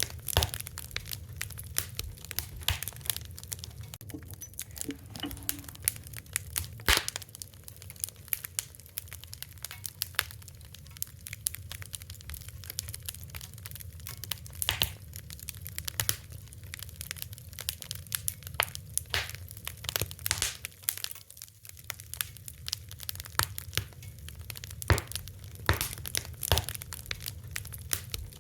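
Fire crackling: dense, irregular snaps and pops over a low steady rumble, with a few louder pops, one about seven seconds in and two near the end.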